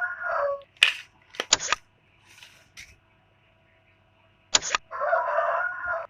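A rooster crowing twice, once at the start and again near the end, with a few sharp clicks or taps in between.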